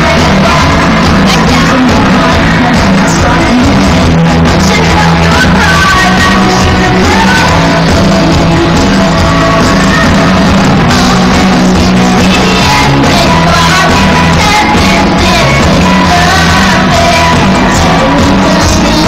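Live pop-rock song played by a full band with a female lead vocal, recorded from the audience in a large hall. It is loud and steady throughout, with poor, overloaded sound.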